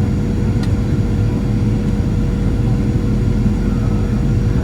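Steady cabin noise of a Boeing 737 in flight: a low rumble of engines and airflow with a constant hum, and a faint click about half a second in.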